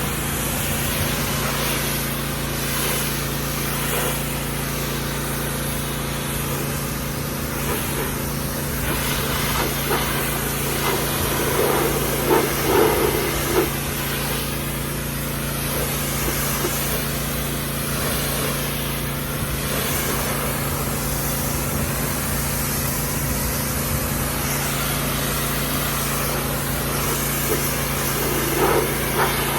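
Pressure washer running steadily, its motor's even drone under the hiss of the water spray, with a few louder spurts about twelve seconds in and again near the end.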